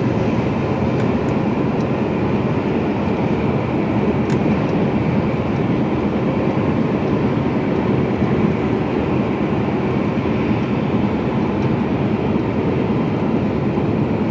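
Mercedes-Benz Actros lorry driving at a steady pace, heard from inside the cab: an even drone of diesel engine, tyre and wind noise that does not rise or fall.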